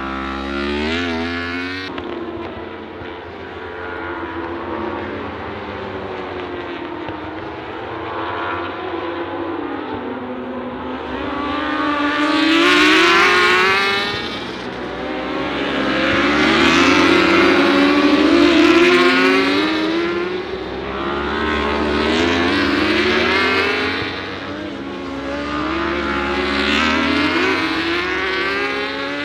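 Racing superbikes passing one after another, engines revving up and dropping in pitch at the gearchanges, in several swells that are loudest in the second half.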